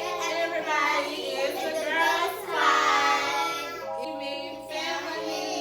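Music with a child singing over held chords.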